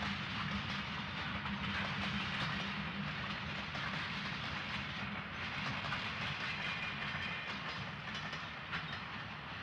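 Train running along the track: a steady rumble and hiss with a low hum, and repeated clicks of wheels over rail joints.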